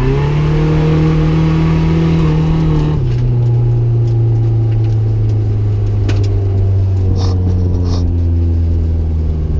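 Nissan 240SX drift car's engine running at steady low revs after a run. The pitch steps down to a lower, steady note about three seconds in.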